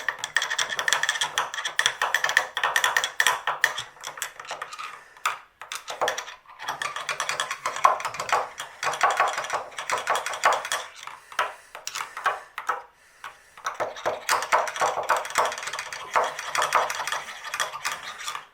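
A metal tool scraping and clicking rapidly inside a water heater's drain opening, digging out built-up sediment, with two short pauses.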